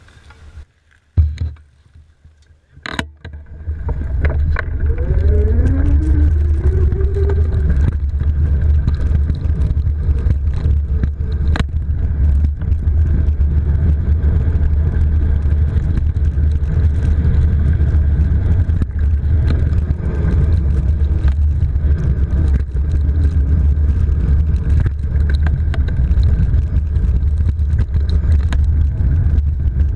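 Low, steady wind rumble on a moving microphone, mixed with the noise of fat tires on a dirt trail, as an electric bike is ridden. It starts about three and a half seconds in, after a quieter stretch with a few clicks.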